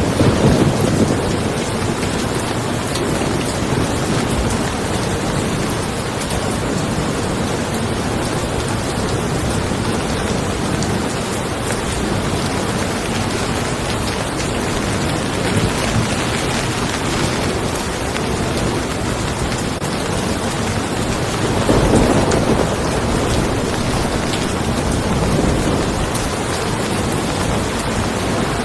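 Steady rain falling on a car, with low rolls of thunder just after the start and again about three-quarters of the way through.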